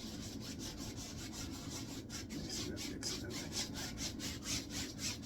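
A 1-inch paintbrush scrubbing oil paint onto a wet canvas in quick back-and-forth strokes, about five a second, with a steady low hum underneath.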